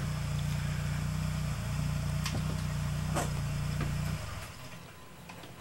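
Car engine idling steadily, then shut off about four seconds in, with a couple of light clicks along the way.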